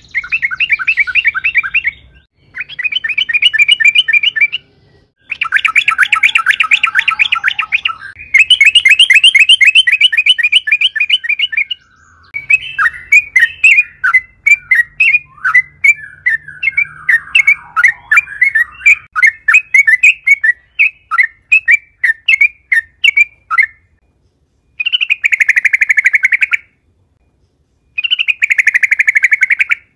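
Yellow-vented bulbul (trucukan) singing in loud bursts of rapid chattering notes, each a second or two long with short pauses between. In the middle comes a longer run of separate sharp chirps, about two or three a second.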